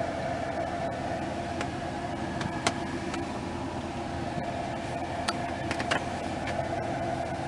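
Steady mechanical hum of the Silverado pickup running, with a few light clicks, the sharpest about two and a half seconds in.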